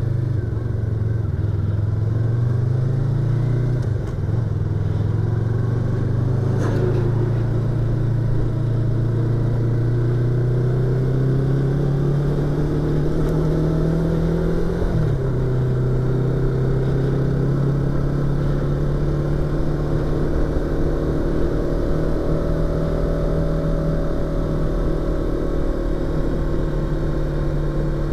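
Yamaha YZF-R25's 249 cc parallel-twin engine and exhaust under way, heard from inside the rider's helmet. The engine pitch rises steadily as it accelerates and drops suddenly at an upshift about 15 seconds in, after a brief dip near 4 seconds. It then climbs slowly and eases off.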